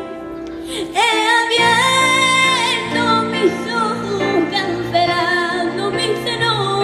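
A woman singing with strong vibrato over instrumental accompaniment, her voice coming in about a second in with an upward slide and then holding long notes.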